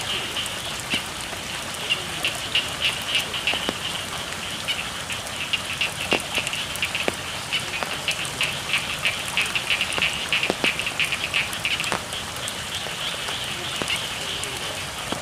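Steady rain on rice paddies with a chorus of frogs calling in quick pulsing bouts, and a few sharper drips and ticks here and there.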